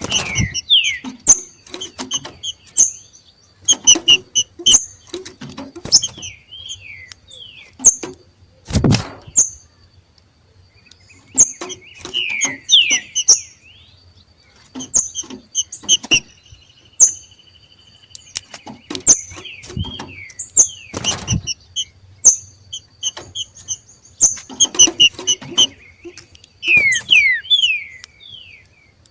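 Green-winged saltators (trinca-ferro) giving their macheado calls: bursts of short, sharp descending chirps mixed with quick clicks. Two louder dull thumps come about nine and twenty-one seconds in.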